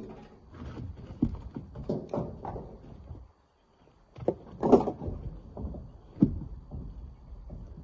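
Irregular knocks and clatters of rocks being broken and handled for loading, with a louder knock about five seconds in. The sound drops out completely for under a second a little past three seconds in.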